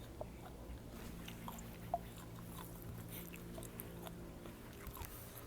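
A person chewing with the mouth close to the microphone: soft smacks and small wet clicks scattered through, over a faint steady hum.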